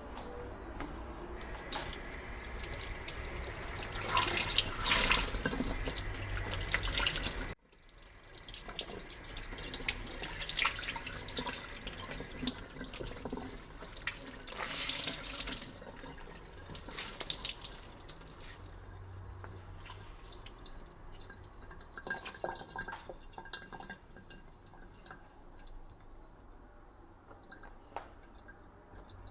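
Kitchen tap running into a sink, with splashing. The sound breaks off abruptly about seven and a half seconds in, then comes back and thins out toward the end.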